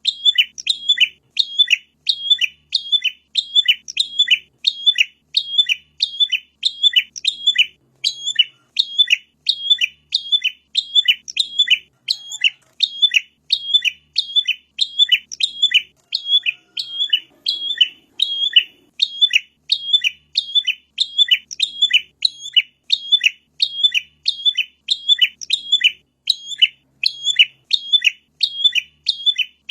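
Prinia (prenjak) song as a master recording: sharp, high chirps repeated in an even, rapid rhythm without a pause.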